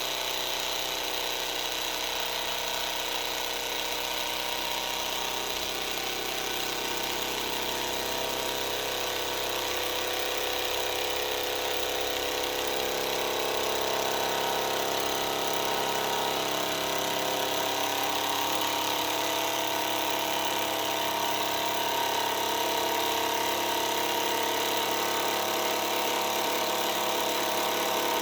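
Model Stirling engine running steadily on an unlubricated bearing, a continuous mechanical whirr with a high whine over it. About halfway through it speeds up a little, rising in pitch and getting slightly louder.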